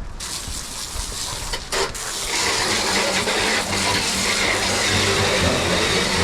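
Garden hose spraying water in a steady hiss that starts sharply and builds over the first couple of seconds.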